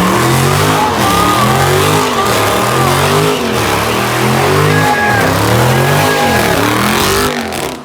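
Car engine revving hard in repeated surges, rising and falling about once a second, while the spinning rear tyres squeal in a burnout. The sound cuts off suddenly near the end.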